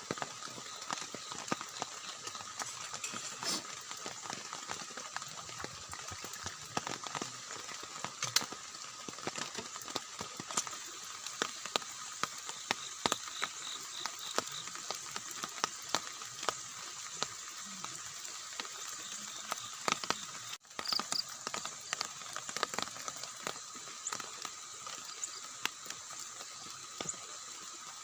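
Rain falling on a tent, a dense, irregular patter of drops tapping on the fabric, with a steady high-pitched drone underneath.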